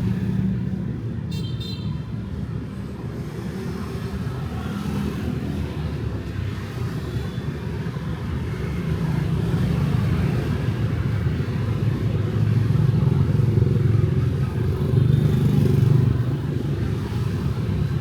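Night street traffic of motorbikes and cars: a steady rumble of engines and tyres that swells louder in the second half as vehicles pass close. A short high-pitched sound cuts in briefly about a second in.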